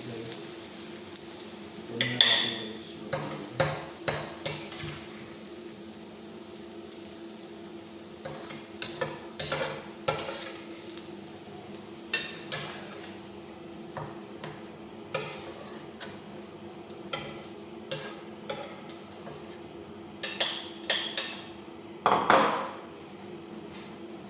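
Metal utensils and cookware clanking and scraping in a kitchen: irregular sharp knocks, often two or three close together, over a steady low hum.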